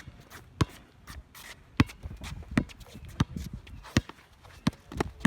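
Basketball being dribbled: a run of sharp bounces about every 0.6 to 0.8 seconds, with light shoe scuffs on the court between them.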